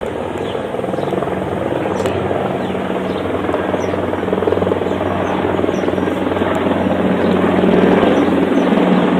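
Helicopter rotor blades chopping in a fast, even beat over a steady engine drone, slowly growing louder.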